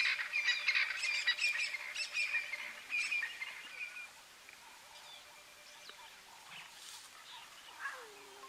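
Birds chirping: a fast run of bright, high chirps for the first four seconds or so, then fainter scattered calls. A short, low call begins near the end.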